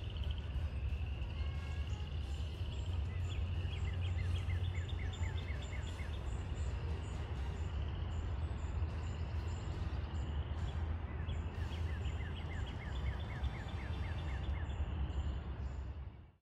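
Outdoor woodland ambience with a steady low rumble on the microphone. A bird twice sings a fast series of short, evenly repeated chirps, first about three seconds in and again in the second half. Everything cuts off just before the end.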